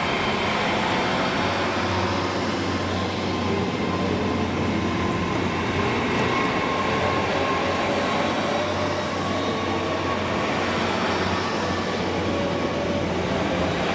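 GWR Hitachi bi-mode intercity train (Class 800 series) running past along the platform: a steady rumble of wheels and underfloor engines with a thin high whine above it.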